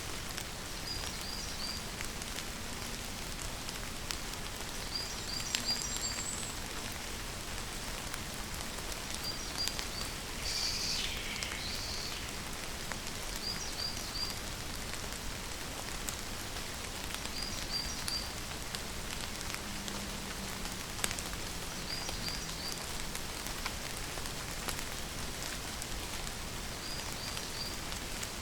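Steady rain falling, with scattered sharp drop impacts. A bird calls through it, three quick high notes repeated about every four seconds, and a longer falling call comes about ten seconds in.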